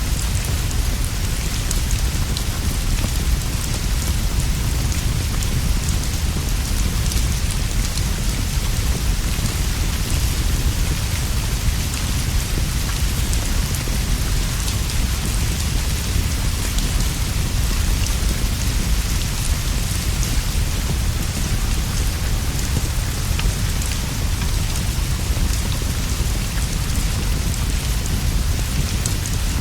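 Steady, unbroken rainfall with scattered small ticks of drops, over a constant low rumble.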